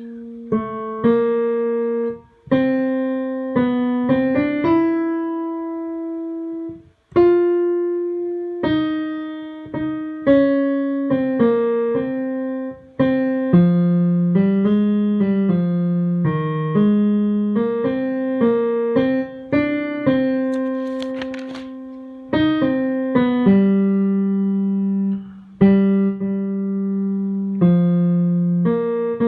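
Piano playing a choral tenor line note by note: a single melody of struck notes that ring and fade, with a short pause about seven seconds in.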